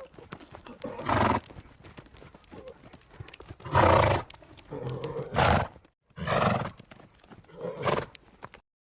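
A horse making five loud, rough neighs, each about half a second long, with the light knocking of hooves between them.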